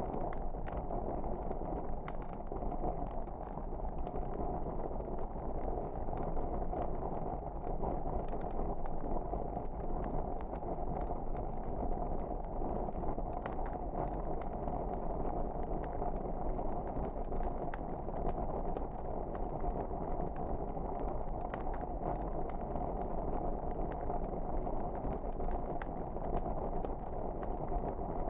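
Wood fire burning with a steady low rush and many scattered sharp crackles and pops.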